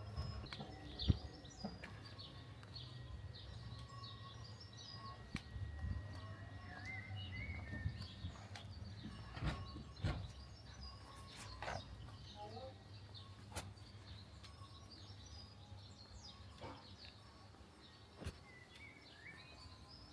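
Small birds chirping repeatedly over a low, steady hum, with a few scattered clicks and knocks.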